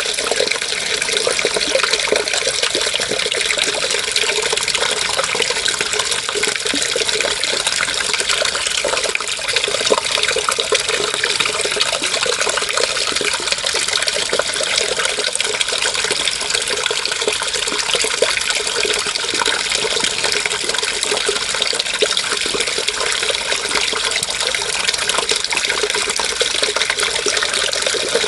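Running water splashing and burbling steadily, an even rushing hiss with no pauses.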